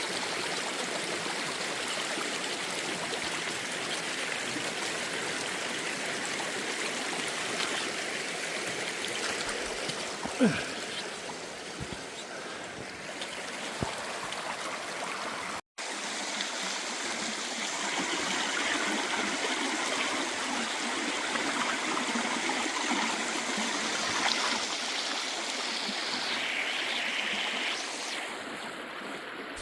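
Steady rushing of a mountain stream, with a single short knock about a third of the way in and a momentary break in the sound near the middle.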